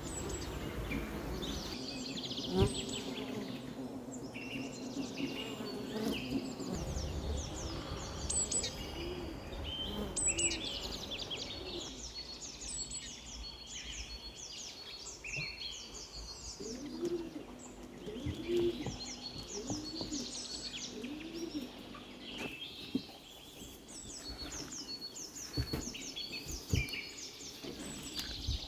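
Several songbirds singing and chirping continuously, with a low hum of bees buzzing around at times. A single sharp click comes a few seconds in.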